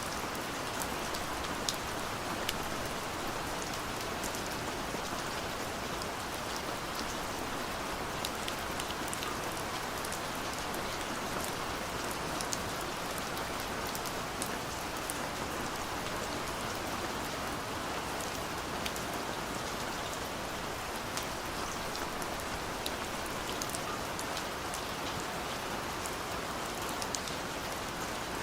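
Steady rain falling, an even hiss with scattered small drop ticks on top.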